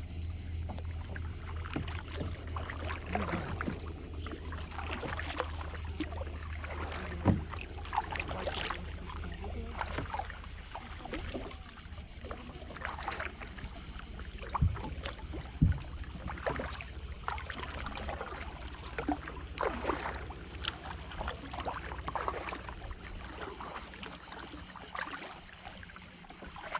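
Kayak paddling: the paddle blades dip and splash in the water in an irregular run of strokes, with a few sharp knocks about 7 and 16 seconds in. A low hum fades out about halfway through.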